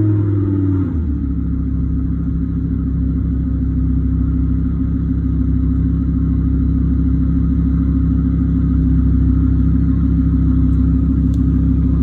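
Artificial combustion-engine sound played by a BYD Dolphin electric car. A revving note falls away in the first second, then settles into a steady, low idle rumble.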